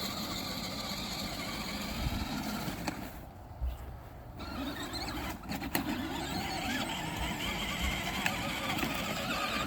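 Small electric motor and gearbox of a child's battery-powered ride-on toy truck whining steadily as it drives through mud. The sound drops away briefly about three seconds in, then picks up again.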